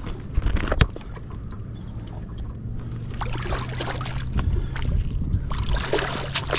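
Knocks and scuffling on a small fishing boat as a freshly caught flathead is handled for measuring, over a low steady hum. Two sharp knocks come early, and rougher handling noise follows in two stretches.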